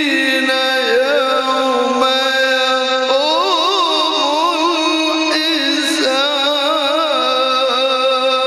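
A man's voice chanting Qur'anic recitation, holding a long drawn-out note with wavering, sliding ornaments and no break for breath.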